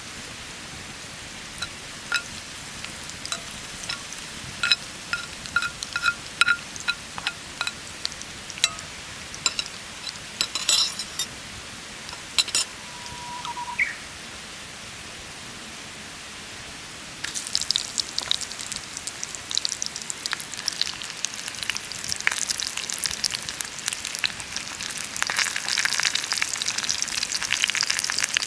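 Light clicks and taps of cooking gear, then about two-thirds of the way in food starts sizzling and spitting in a hot pan over the fire, getting louder toward the end.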